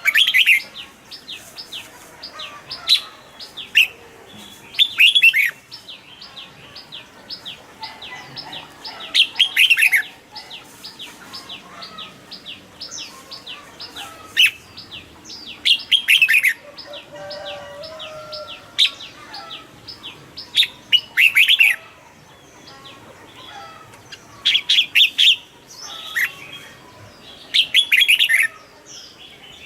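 Red-whiskered bulbul singing: about eight short, loud warbled phrases a few seconds apart, with quick high chips running on between them.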